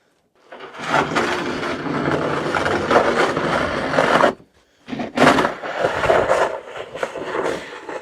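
Snow shovel scraping along the drive as snow is pushed off: one long continuous scrape, a brief pause, then a second, choppier push with a knock about five seconds in.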